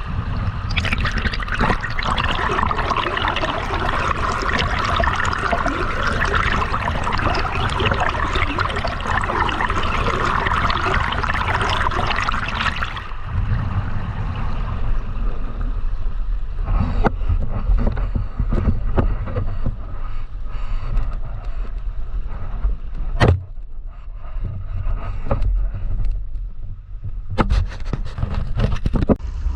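Flowing river water: a steady rushing hiss that cuts off abruptly about halfway. It gives way to a duller low rumble with scattered clicks and knocks.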